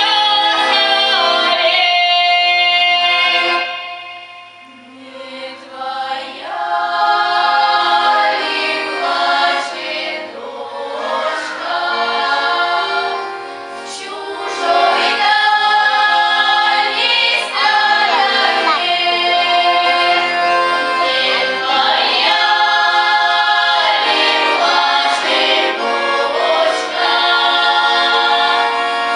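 Folk choir singing a Russian folk song in several voices with long held notes. It drops quieter about four seconds in, and briefly again near the middle, between phrases.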